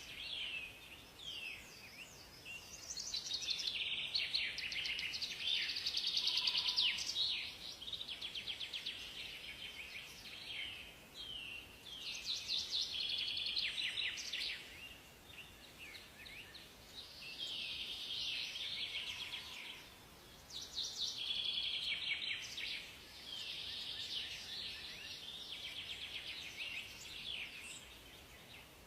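Songbirds singing in a forest chorus: overlapping phrases of rapid high chirps and trills a few seconds long, with short lulls between, and a soft lower whistle now and then.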